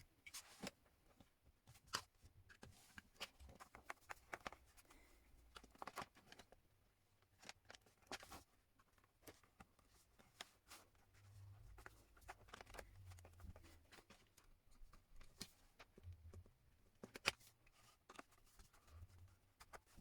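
Faint scattered clicks and taps of small parts being handled as wires are fitted into the terminals of an on-off switch.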